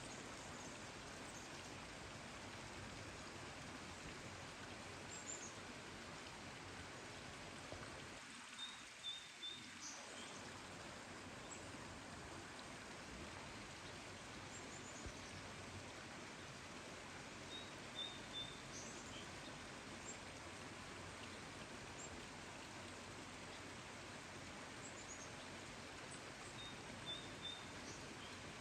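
Small birds chirping faintly, short high calls every few seconds, over a steady even hiss that drops out in its low part for a moment about a third of the way in.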